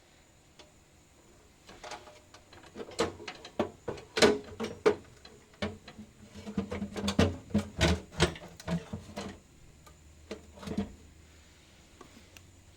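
Irregular clatter of sharp clicks and knocks from parts and tools being handled, busiest between about three and nine seconds in.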